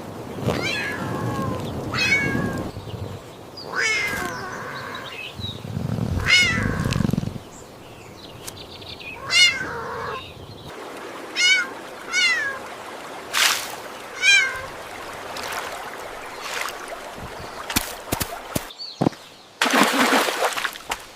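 Cats meowing over and over, about a dozen short meows that rise and fall in pitch. Under the first several seconds there is a low rushing noise. Near the end come a few sharp clicks and a brief burst of noise.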